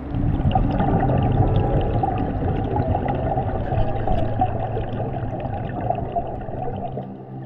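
Underwater recording of bubbling and gurgling, most likely a scuba diver's exhaust bubbles from the regulator, with fine crackling clicks over it. The bubbling eases off briefly near the end.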